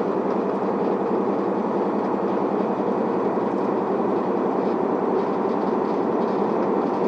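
Cabin sound of an Isuzu Elga city bus running: a steady diesel engine and road rumble with no distinct events.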